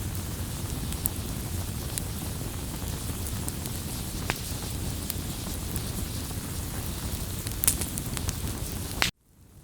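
Wood campfire burning: a steady hiss and rumble with scattered crackles and pops, one sharper pop near the end. The sound cuts off suddenly just before the end, then begins to fade back in.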